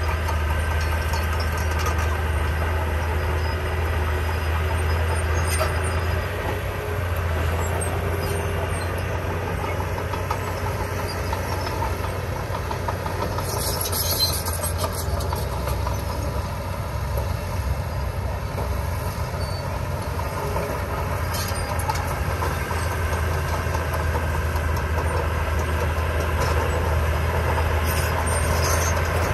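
Heavy diesel engine of earthmoving machinery running steadily with a deep, constant hum. A short high-pitched noise comes about halfway through.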